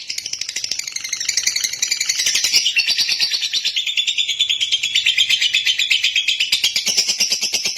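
Lovebird singing one long, unbroken stretch of very rapid, high chirping notes.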